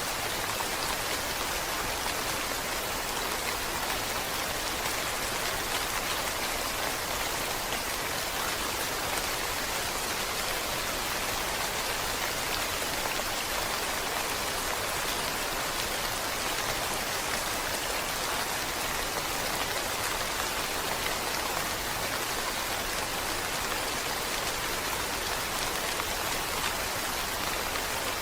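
Steady rain: an even hiss of many drops, with no single louder hits.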